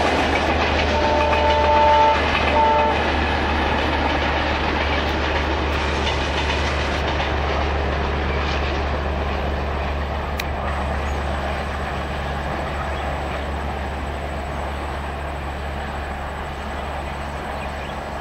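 Passenger coaches of an Indian Railways train rolling past on the rails with a steady rumble and clatter that slowly fades as the train moves away. A short steady high tone sounds twice about a second in.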